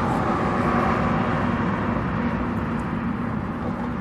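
Steady road traffic noise with a faint low engine hum, slowly easing off.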